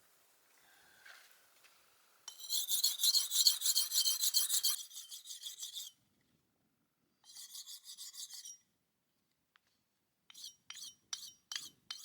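Rapid rhythmic rasping strokes, high-pitched and running for a few seconds, then a shorter run of the same. Near the end come separate sharp clinks, about three a second.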